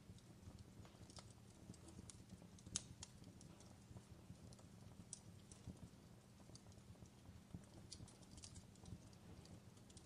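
Faint fireplace crackling: small irregular pops and snaps over a low steady rumble, with one sharper pop about three seconds in.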